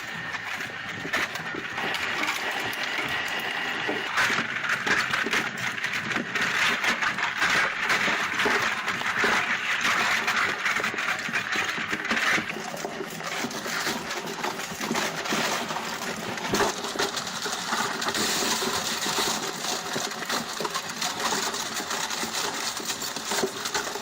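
Industrial shredder chewing through material: a dense, continuous crackling and metallic clattering that changes texture about halfway through.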